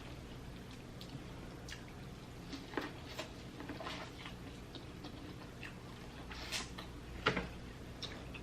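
Close-miked eating sounds: scattered soft wet smacks and small clicks of chewing and handling food, a few of them a little louder near the middle and end, over a faint steady low hum.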